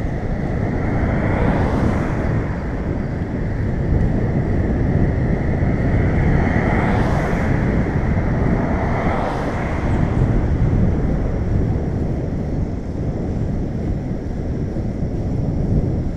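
Wind rumbling over the microphone of a camera on a moving bicycle. Three motor vehicles pass close by, about two, seven and nine and a half seconds in, each swelling and fading.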